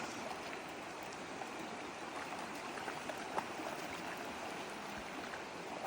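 Steady rush of a flowing river, which runs slightly high after rain.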